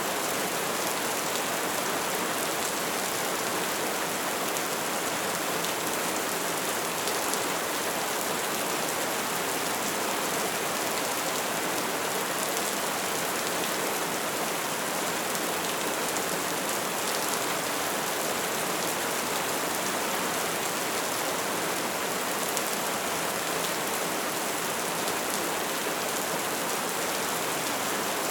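Bonfire burning with a steady dense crackle, many small pops and snaps over a continuous hiss.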